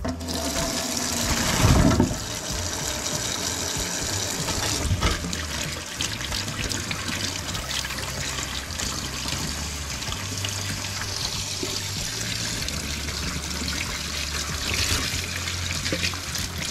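Tap water running steadily onto sweet green peppers in a stainless steel sink as they are rinsed by hand. A louder thump about two seconds in.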